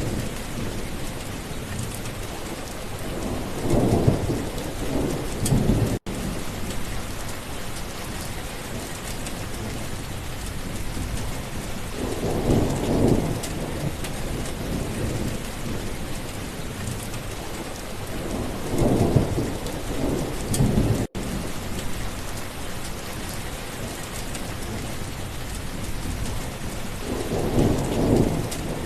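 Steady rainfall, with rolls of thunder rumbling four times: a few seconds in, near the middle, about two-thirds through and near the end. The sound cuts out for an instant twice.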